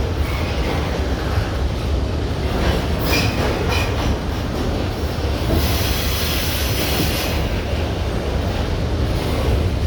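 Freight train rolling past, its wheels rumbling steadily on the rails, with brief high-pitched wheel squeals about three seconds in and again around six seconds.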